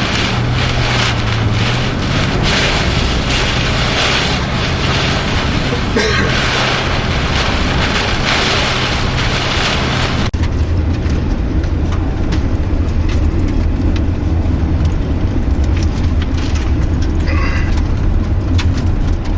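Severe storm wind and rain hissing against a moving car. About halfway through, the sound changes abruptly to steadier engine and road noise inside the car, with much less hiss.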